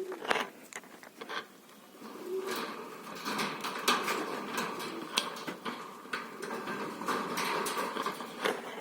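Pet parrot making soft, low calls and chatter, with scattered small clicks.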